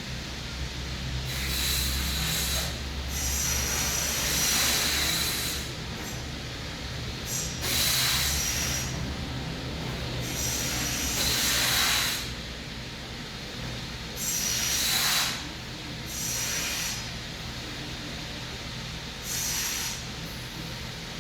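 Slow, audible breaths through the nose, each a hiss lasting a second or two, about seven of them a few seconds apart, over a steady low hum: anulom vilom (alternate-nostril) pranayama breathing.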